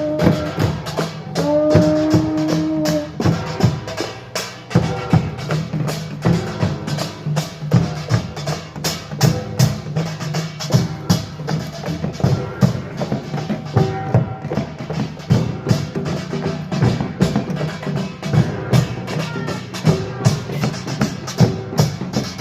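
Korean pungmul percussion ensemble of gongs and drums playing a fast, dense rhythm, with a short held tone about a second and a half in.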